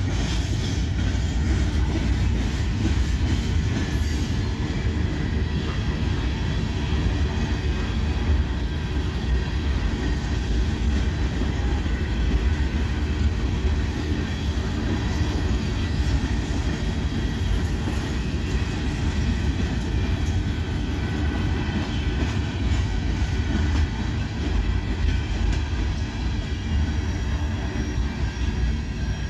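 Freight train cars rolling past close by, with a steady, loud rumble of steel wheels on the rails.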